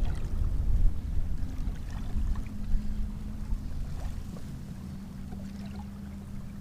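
Wind buffeting the microphone aboard a kayak, a low rumble that slowly eases, with a faint steady hum joining about a second and a half in.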